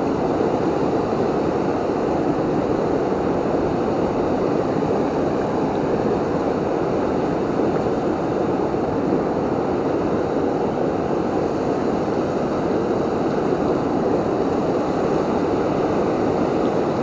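Rushing water of a river waterfall, a steady, even sound without a break.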